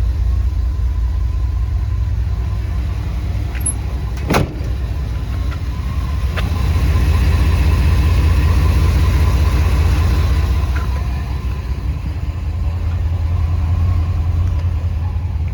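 Ford E-350 box truck engine idling with a steady low rumble; the truck has a cylinder 1 misfire code, which makes it idle a little weird at times. A sharp click about four seconds in, and a smaller one a couple of seconds later.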